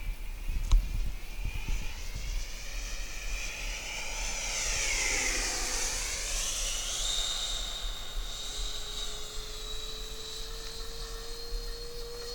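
Electric ducted-fan model jet flying past, a high whine with a stack of overtones that gets louder and dips in pitch as it passes closest about five seconds in, then holds a steadier, higher pitch. A single sharp click just under a second in.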